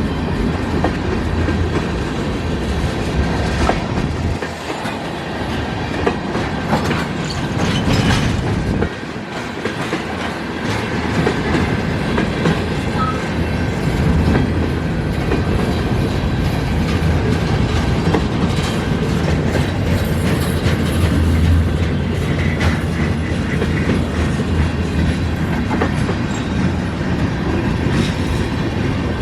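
Mixed freight train's cars rolling past steadily, with a continuous rumble and the clickety-clack of steel wheels over rail joints.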